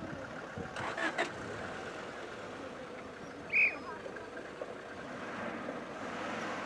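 Mercedes-Benz W123 saloon towing a box trailer, its engine running at low speed as it manoeuvres, a steady low hum. A couple of sharp knocks come about a second in, and a short high chirp about halfway through.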